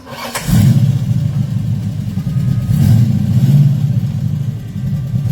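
Ford 429 big-block V8 in a 1967 Ranchero starting up, catching about half a second in and then running with a deep, steady rumble.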